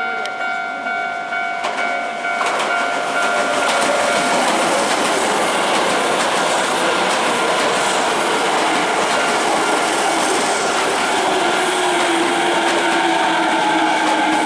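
A Japanese level-crossing warning bell rings in quick, even strokes. About two seconds in, a Hankyu Senri Line electric train passes over the crossing, and the loud, steady run of its wheels and rail-joint clacks covers the bell. Near the end a slowly falling whine comes in.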